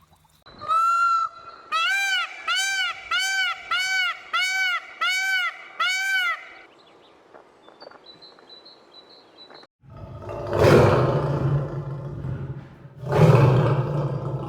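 A series of short pitched animal calls, eight rising-and-falling calls about two a second after a single longer one, then two loud, deep roars in the second half.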